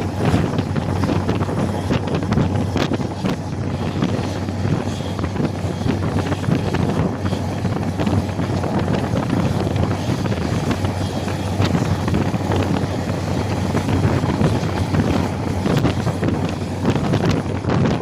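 A train running, heard as a steady rumble with scattered clicks and knocks, and wind buffeting the microphone.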